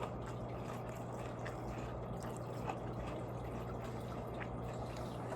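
Quiet eating: a few faint, wet mouth clicks while chewing, over a steady low hum and hiss of room noise.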